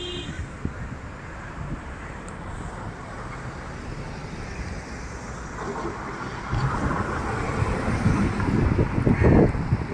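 Street traffic noise with wind buffeting the microphone, swelling louder in the last few seconds.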